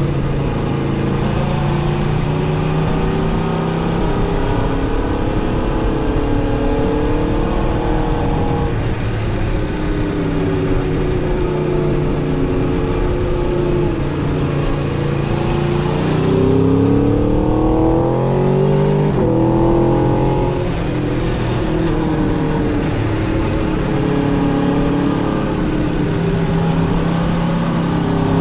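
Aprilia RSV4 RR's V4 engine through its stock exhaust, cruising at a steady engine speed. A little past halfway the revs climb in two quick rising pulls with a brief break between them, then drop back to the cruise.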